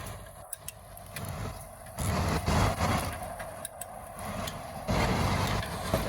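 Motor vehicle noise: a low engine and road rumble that gets louder abruptly about two seconds in and again near the end.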